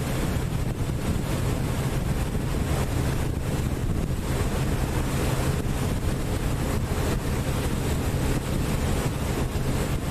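Passenger boat's engine humming steadily, heard from on board, with wind buffeting the microphone and water rushing past the hull.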